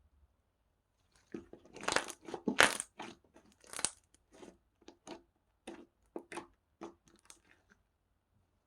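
Slime being pressed and squished by hand, giving crunchy crackles and pops: a dense run of loud crackles, then single crackles about every half second that fade toward the end.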